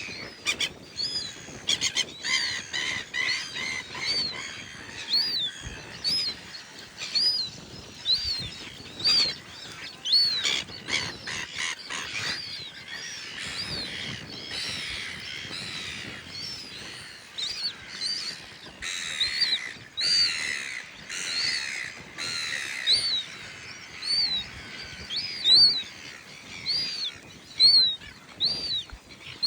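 Birds calling: a high, arched chirp repeated about once a second over a steady chatter of other bird calls, with a few sharp clicks among them.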